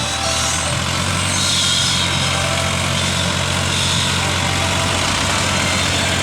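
New Holland tractor's diesel engine running steadily and loudly, with a broad noisy hiss over it.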